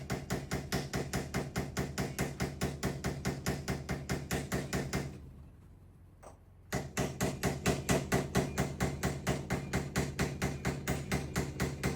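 Rapid, steady hammer blows on a countertop, about four a second, driving a fitting into an RV water line. The blows pause for over a second about five seconds in, then resume.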